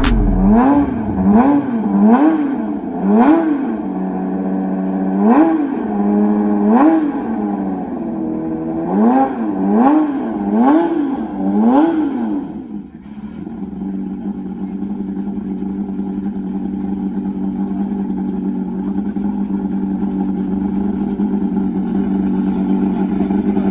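Porsche race car engine blipped repeatedly on the throttle, about two quick rises and falls in revs a second with short pauses between runs. About 13 seconds in it drops back and settles into a steady, even running note.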